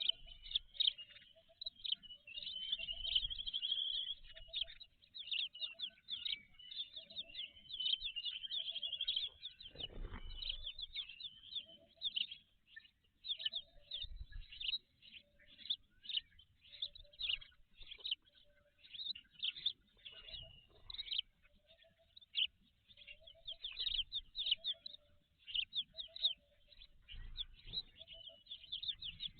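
Birds chirping rapidly and almost without pause, high-pitched. Under them a soft, low note repeats roughly once a second, and there is a single low thump about ten seconds in.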